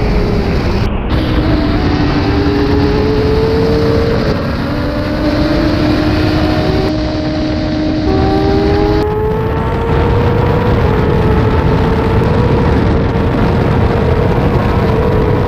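Yamaha sportbike's inline-four engine at high revs on track, its pitch climbing and stepping as the rider works through the gears, under heavy wind rush from high speed.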